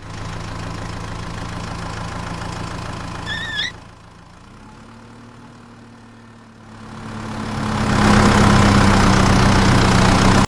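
A steady engine-like or motor running sound with a low hum. A brief wavering squeak or whistle comes just before it drops back about four seconds in. It then swells from about seven seconds in to a loud, rushing run, and cuts off suddenly at the end.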